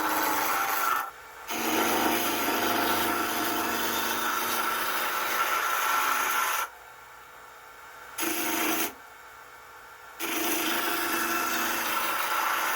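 A turning tool cutting a wooden blank spinning on a wood lathe, a steady scraping cut over the lathe's hum as the blank is rounded down. The cutting stops three times for a second or so, leaving only the quieter running lathe.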